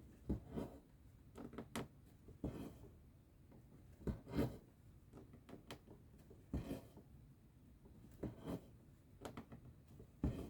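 Needle and thread being pulled through cross-stitch fabric: faint, short rustling pulls at an irregular pace, a dozen or so, some in quick pairs.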